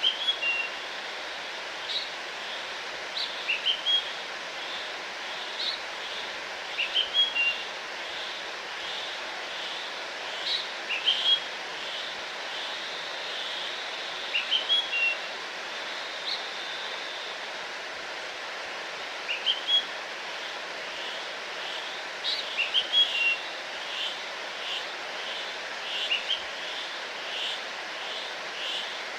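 Songbirds singing short phrases of quick rising notes every few seconds, over the steady rush of a waterfall.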